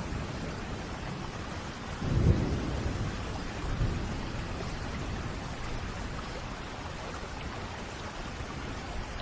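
Steady rain with a rumble of thunder that swells suddenly about two seconds in and rolls off, with a smaller rumble a second and a half later.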